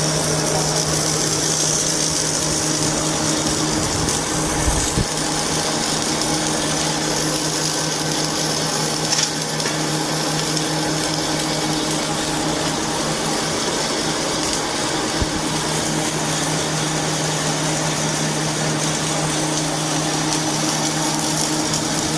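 Factory machinery running steadily with a constant hum, and a few faint knocks now and then.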